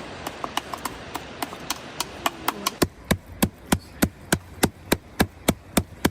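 Sharp knocks repeating at an even pace, about three a second, growing louder and more regular about three seconds in, over a steady hiss that fades out at the same point.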